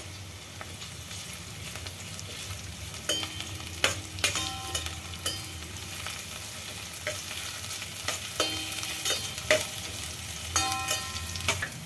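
Sliced onion, curry leaves and green chilli sizzling in hot oil in a stainless-steel pot while a metal spatula stirs and scrapes them around. Now and then the spatula knocks the pot and a brief metallic ring follows.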